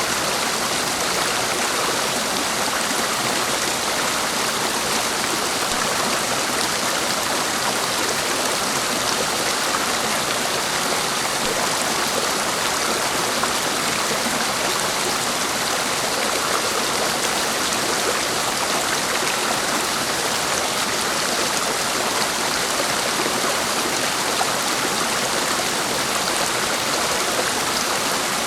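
Clear mountain stream rushing and splashing over rocks: a steady, even flow of water with no change in level.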